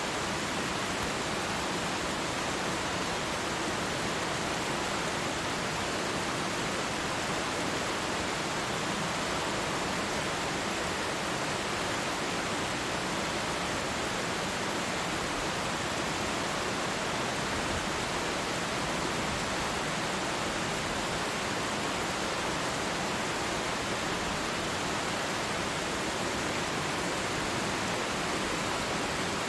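Waterfall: falling water rushing in a steady, even wash of noise with no breaks or changes.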